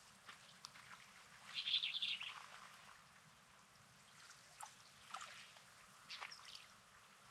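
Faint sea-shore ambience on a rocky beach: small waves trickling over stones with scattered light clicks, and a brief louder rattling wash about a second and a half in.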